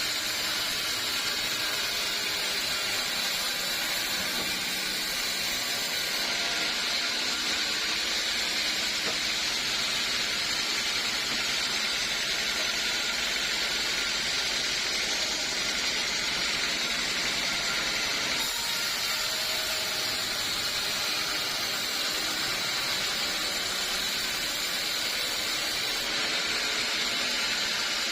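Sawmill saw running steadily through teak wood, a continuous high, hissing machine noise with a faint steady hum underneath.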